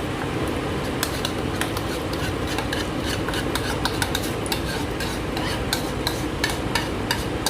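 A spatula stirring and scraping through thick chili paste frying in a pan, with frequent sharp knocks against the pan from about a second in over a steady frying noise. The chilies have just gone into the paste.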